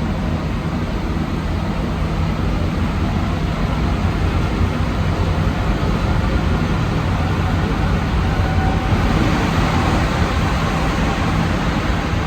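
Interior of an Alstom NS-74 rubber-tyred metro car running between stations: a steady rolling and traction noise with a low hum, swelling slightly about nine seconds in.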